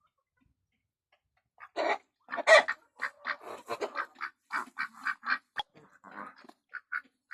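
Farmyard poultry calling: a quick run of short, harsh calls, about three or four a second, that starts about two seconds in, loudest near its start.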